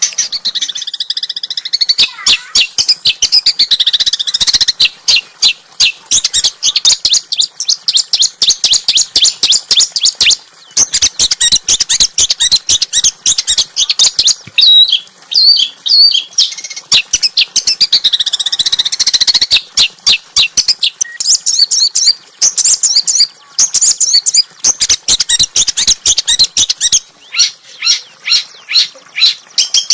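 Small songbird singing a rapid, almost unbroken run of sharp, harsh high chirps and trills, with brief pauses; the notes come more spaced out near the end.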